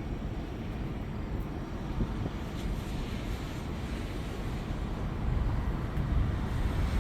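Thunder rumbling low and continuously, swelling louder over the last couple of seconds.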